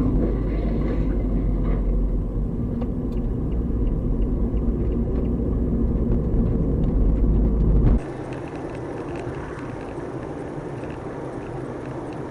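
Steady low rumble of road and engine noise inside a moving car. About eight seconds in it cuts abruptly to a quieter, thinner hum of road noise.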